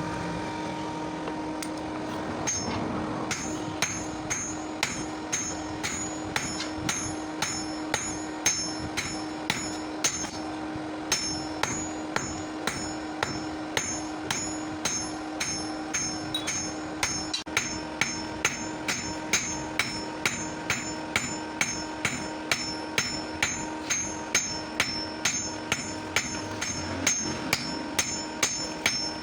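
Blacksmith's hammer striking steel on an anvil at a steady pace of about two blows a second, each blow with a high ring. The blows begin about two seconds in and continue throughout. A steady hum runs underneath.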